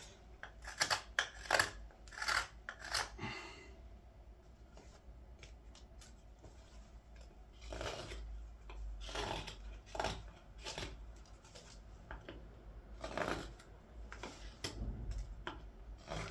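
Knife slicing green wood while carving a wooden ladle: irregular short cuts, a quick run of them at first, a lull, then strokes about a second apart.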